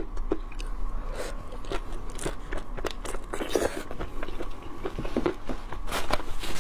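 Close-miked chewing of shrimp coated in chopped peanuts and chili: a steady run of short, crisp crunches as the peanuts are bitten and chewed.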